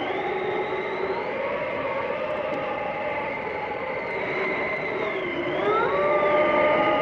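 Blizzard wind howling: a steady rush with several thin whistling tones that slowly rise and fall. About five and a half seconds in, a new whistle sweeps up and holds, and the sound gets a little louder.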